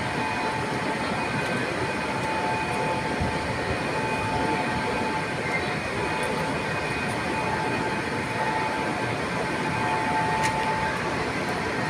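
Steady running noise of a moving train, with a few faint whining tones held over the rumble.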